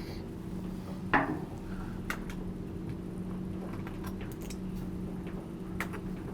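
Faint metallic clicks and clinks of refrigerator door hinge hardware being worked loose and handled, with one brief louder scrape about a second in, over a steady low hum.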